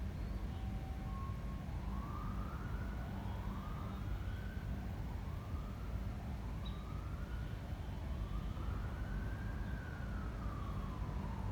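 A faint emergency-vehicle siren wailing, its pitch rising and falling about every second and a half, then in one slower sweep near the end. Under it, a steady low rumble of wind on the microphone.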